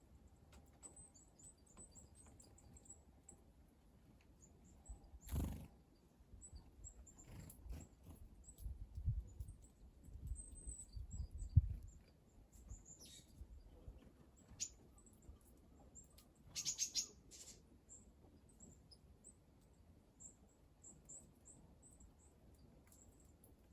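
Small wild birds giving short, high, thin chirps again and again, with a quick run of several notes about seventeen seconds in. A single thump comes about five seconds in, and low rumbling bursts come between about eight and twelve seconds.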